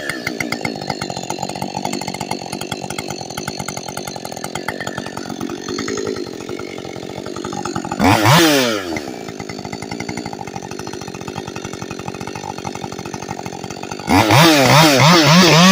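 Ported Husqvarna chainsaw idling, revved up and back down once about eight seconds in. Near the end it goes to full throttle and holds there, its pitch wavering.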